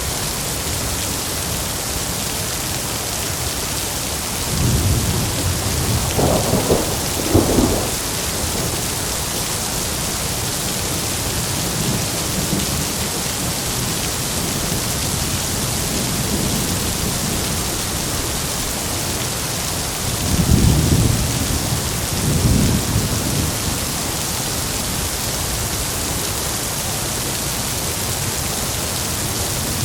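Heavy rain falling in a steady hiss, with two rolls of thunder rumbling through it: one about five seconds in, and another about twenty seconds in.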